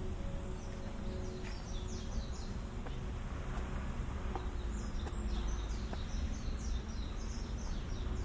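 A songbird calling in quick runs of short, high chirps, one brief bout about a second in and a longer bout from about three and a half seconds on, over a steady low outdoor rumble.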